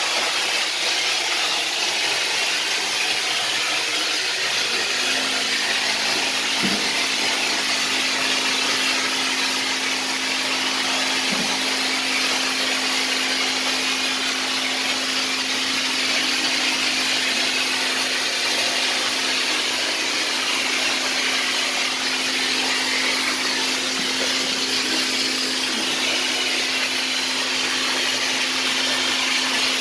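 A machine running steadily with a strong, even high hiss; a steady hum joins about five seconds in.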